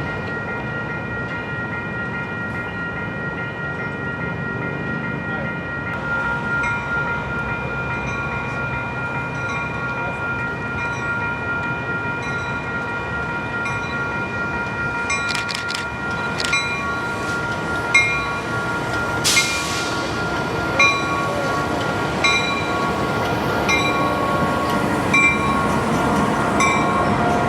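Freight train passing, with a steady high ringing and a sharp click about every second and a half from around six seconds in, growing slowly louder.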